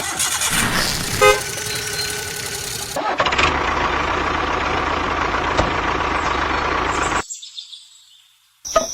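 A vehicle engine running steadily, with a short horn toot about a second in; it fades out about seven seconds in.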